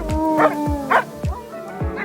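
Background music with a steady beat, with a dog barking a few short times over it.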